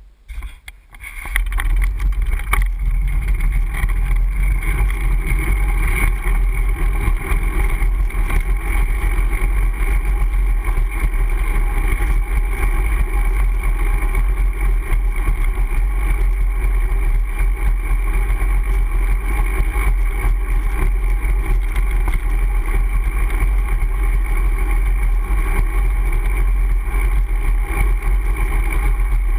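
Steady low wind rumble buffeting a GoPro HD Hero's microphone, mixed with road noise, as a Brompton folding bicycle is ridden. It sets in about a second and a half in and holds evenly.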